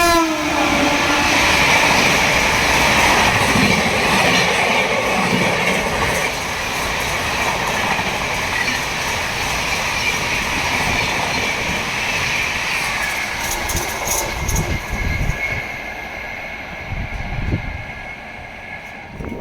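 A WAP7 electric locomotive's horn cuts off at the start, its pitch dropping as the locomotive passes. Then the train's coaches run through at speed with steady noise and wheel clatter, fading near the end.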